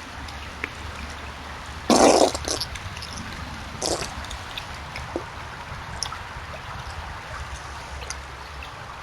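Beaver making wet noises while scent marking: a loud wet burst about two seconds in, quickly followed by a second, and a smaller one about four seconds in. Trickling water and small drips run underneath.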